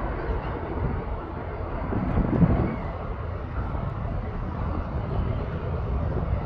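Airbus A350's Rolls-Royce Trent XWB turbofans rumbling steadily as the airliner climbs away after takeoff, swelling slightly about two seconds in.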